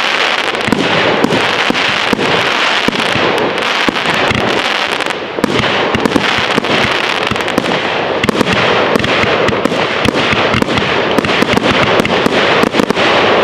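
Fireworks display going off in a dense, continuous barrage: many bangs and crackles in quick succession, with no let-up.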